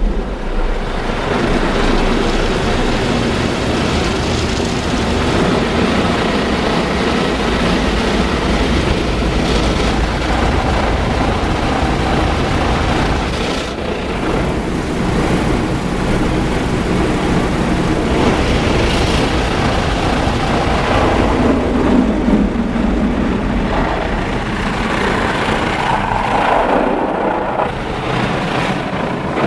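Rotating brushes of a Mark VII ChoiceWash XT car wash spinning and scrubbing against the car body, heard from inside the car as a steady, loud rush of noise that swells and eases.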